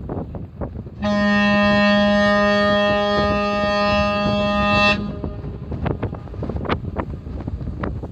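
Oki Kisen ferry Shirashima's ship horn sounding one steady blast of about four seconds, starting about a second in, over strong wind buffeting the microphone.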